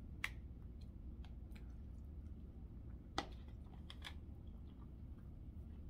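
Quiet chewing of a mouthful of roast and vegetables, with faint wet mouth clicks. Two sharper clicks come about a third of a second in and just after three seconds, over a low steady hum.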